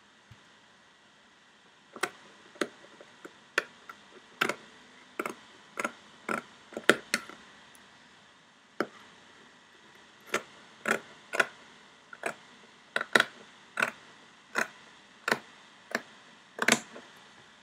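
Sharp scissors snipping through fabric in a series of crisp cuts, about one or two a second, starting about two seconds in, with a short pause midway.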